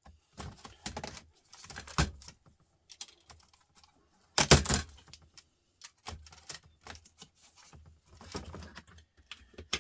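Small hard clicks and rattles of laptop parts and tools being handled on a work surface, with a louder clatter about four and a half seconds in.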